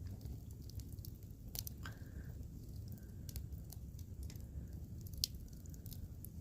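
Wood fire crackling: irregular sharp pops and snaps over a steady low rumble, with one louder pop about five seconds in.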